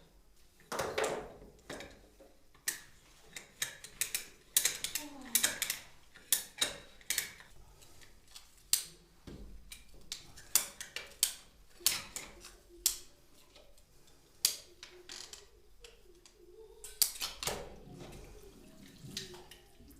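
Irregular sharp clicks and knocks as a plastic plumbing pipe is worked on and cut by hand, with a little faint mumbling in between.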